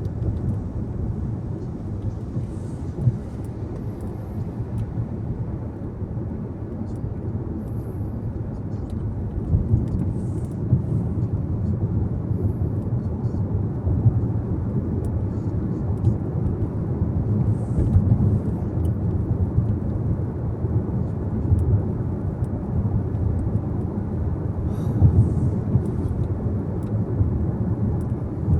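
Car driving at speed: a steady low rumble of road and engine noise with no let-up.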